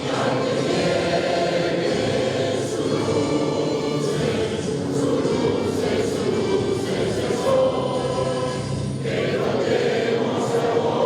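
A choir singing a hymn with held notes, with musical accompaniment.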